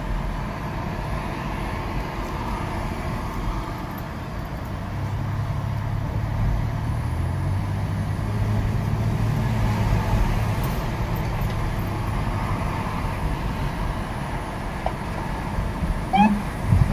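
Engine hum and road noise inside the cabin of a 2007 Chevrolet Impala driving in traffic. The hum grows as the car accelerates and settles lower near the end after an upshift. A brief short chirp comes near the end.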